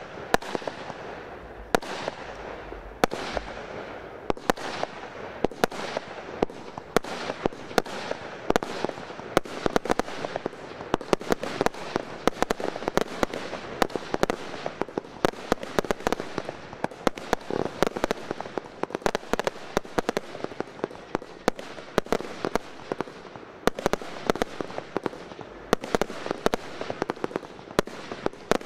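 Fireworks display going off: sharp bangs of bursting shots in quick succession, several a second, over a steady hiss with no let-up.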